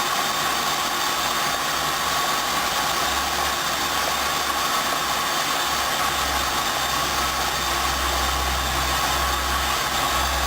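Hoover Dynamic washing machine running at the start of its second rinse: a steady hiss with a faint high tone, and a low motor hum that sets in about three seconds in.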